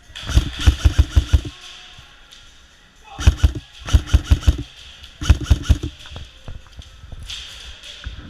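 Airsoft electric rifle firing on full auto in four short bursts of rapid, evenly spaced shots, the first a little over a second long and the others shorter.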